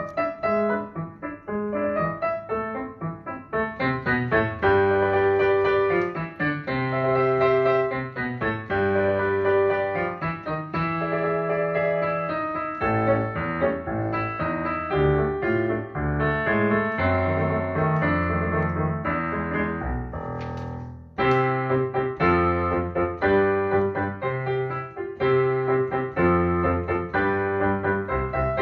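Piano playing an instrumental piece in chords and a moving melody. The playing thins and breaks off briefly about two-thirds of the way through, then picks up again.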